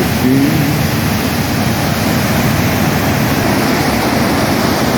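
Flooded creek water rushing and thundering through in a loud, steady, unbroken noise.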